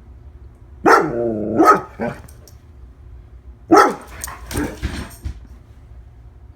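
One-year-old female Labrador barking in two bouts, one about a second in and another near four seconds; the first bout opens with a longer, wavering bark.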